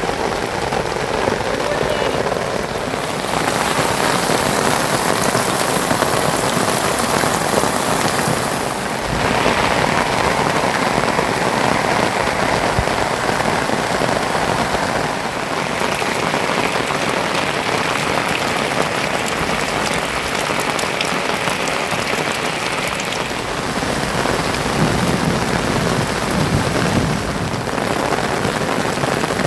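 Heavy monsoon rain falling steadily, a dense hiss whose character shifts every several seconds.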